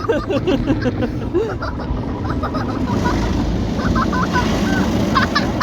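Automatic car wash working over the car, heard from inside the cabin: a steady rush of water spray and brushes that grows louder about three seconds in, with voices in the car near the start.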